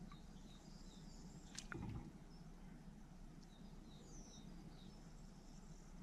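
Faint wild birds chirping in the distance: short, scattered high notes over quiet outdoor ambience. A brief soft knock with a low rustle about a second and a half in.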